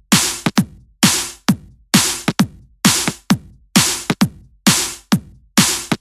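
Electronic dance track opening on a drum-machine beat: a kick drum on every beat, about two a second, with a long hissing noise hit on every other beat and a shorter sharp hit between them. No melody stands out over the drums.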